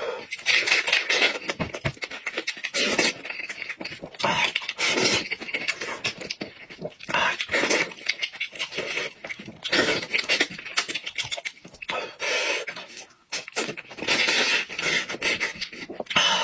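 Close-miked mukbang eating sounds: a person chewing and lip-smacking on goat head meat, in irregular bursts of wet clicks and breathy sucking noises.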